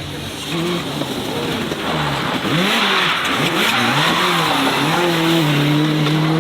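A car engine revving up and down in several quick swoops, then holding a steady high note, over a broad hiss that is loudest about three seconds in.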